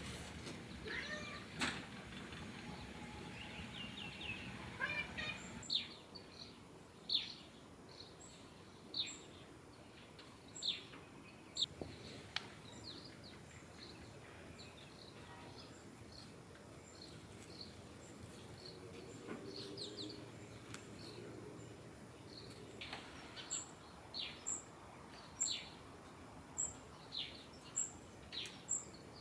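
Birds calling: short, sharp descending chirps, one every second or so, with a faint high peep repeating steadily later on, over a soft steady hiss of ambient noise.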